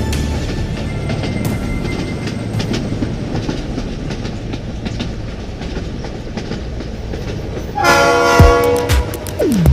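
A passenger train running on the rails: a steady rumble with scattered wheel clicks, then the locomotive's horn sounding loudly for about a second and a half, about eight seconds in.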